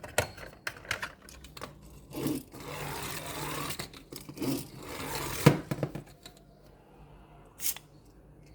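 Packaging being handled and torn open: a few sharp clicks, then a few seconds of crinkling and tearing with a single loud knock, and a short rustle near the end.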